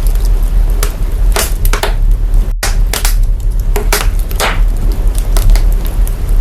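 Fire crackling, signal-processed to bring out heavy deep bass: a continuous low rumble under scattered sharp crackles and pops. The sound cuts out for an instant about two and a half seconds in.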